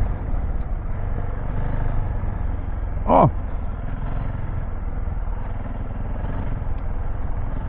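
KTM 690 Enduro R's single-cylinder engine running steadily under way, with a rush of wind and road noise. A short vocal exclamation comes about three seconds in.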